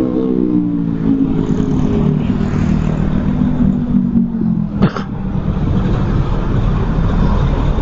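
Motorcycle engine running under a steady rush of road noise, its pitch falling slowly over the first four seconds as the revs drop. There is one sharp click about five seconds in.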